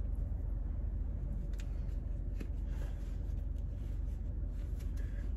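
Low steady rumble of a car idling, heard from inside the cabin, with faint rustling and a few soft clicks as things are handled.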